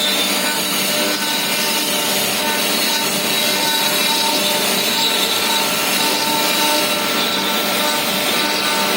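CNC stone router running and cutting: a steady grinding noise with a steady high whine over it.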